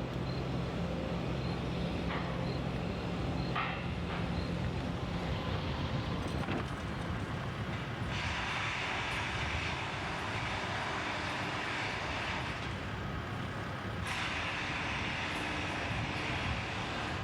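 Steady low mechanical rumble of a vehicle or heavy machinery, with a rushing hiss that rises twice, about eight and fourteen seconds in.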